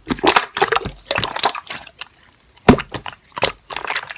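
Slime being squeezed and pressed by hand: wet crackling and popping in quick clusters, with a short lull about two seconds in.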